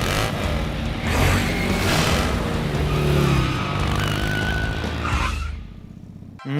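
Cartoon sound effects of a car engine driving off with tyres skidding, over background music; the sound drops away near the end.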